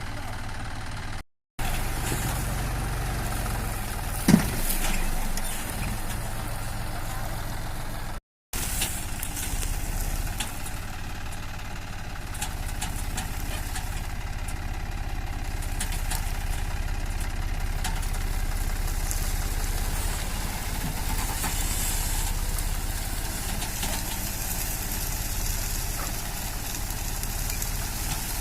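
Tractor engine running steadily under load, with a single sharp knock about four seconds in. The sound cuts out briefly twice.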